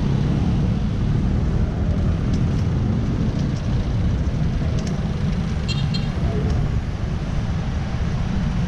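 Wind buffeting the microphone of a helmet-mounted camera while riding, a steady low rumble with road and traffic noise under it. A brief high-pitched chirp about six seconds in.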